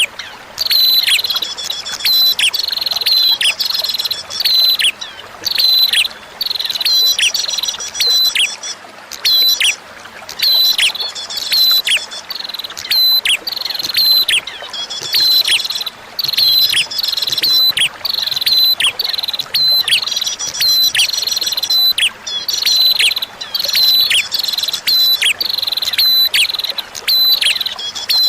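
Recorded prenjak (prinia) song: bursts of sharp, high, repeated chirps with quick falling notes, coming in phrases about once a second, over a faint background of flowing water.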